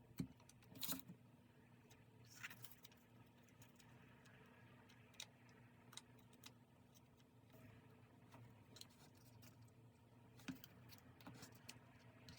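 Quiet, scattered taps, clicks and light rustles of stationery being handled on a desk, with a faint steady hum underneath; the sharpest taps come just under a second in and about two and a half seconds in.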